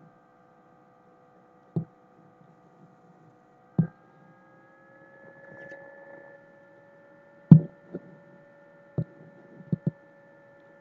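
A steady electrical hum made of several tones, stepping slightly higher in pitch about four seconds in, with a handful of sharp clicks scattered through it. The loudest click comes about two-thirds of the way through.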